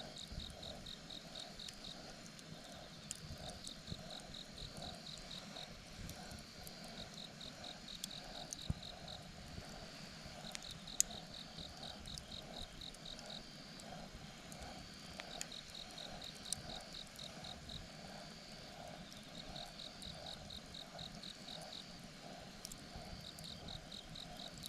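Insects chirping in repeated trains of quick high pulses every few seconds over a lower, steady pulsing call, with occasional sharp crackles from a campfire.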